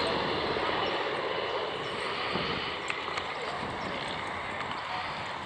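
Aircraft engine noise fading steadily as the aircraft flies away.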